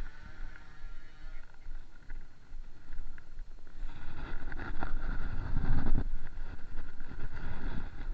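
Motocross dirt bike engines running at a distance as a steady whine, with a louder, noisy low rumble coming in about halfway through.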